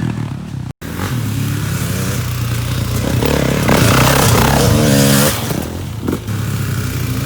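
Dirt bike engine running and revving up and down under a steady hiss, with a brief dropout just under a second in.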